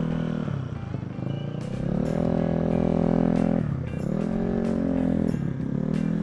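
Motorcycle engine pulling away and easing off: its pitch climbs and holds, drops about three and a half seconds in, then climbs again, dips and rises once more near the end.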